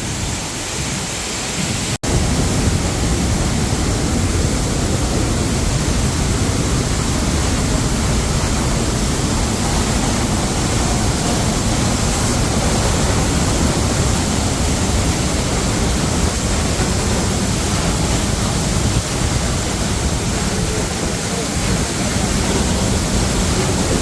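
Sapo Falls' water curtain pouring down right beside the microphone: a loud, steady rush of falling water and spray. It cuts out for an instant about two seconds in, then comes back slightly louder.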